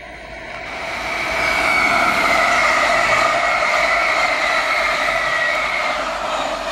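A Munich S-Bahn class 423 electric multiple-unit train, two units coupled, passing close by. A rushing rail noise swells up over the first second or so, holds, and fades near the end, with a high whining tone over it that drifts slightly lower in pitch.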